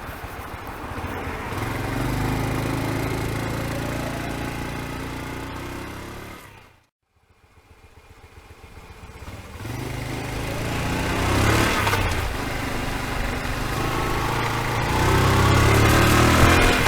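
Honda Super Cub's air-cooled single-cylinder four-stroke engine running and being revved up and down, with no ticking heard now that the noise is cured; the uploader suspects the piston had been hitting something. The sound drops away to silence for a moment about seven seconds in, then the engine climbs back up.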